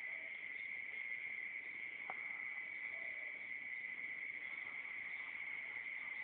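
Insects, likely crickets, chirring in one steady, unbroken high tone, with a faint click about two seconds in.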